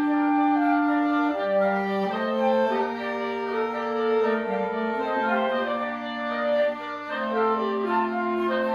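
Wind quintet playing live chamber music: several instruments sound together, with long held low notes under shorter moving lines above, the clarinet standing out.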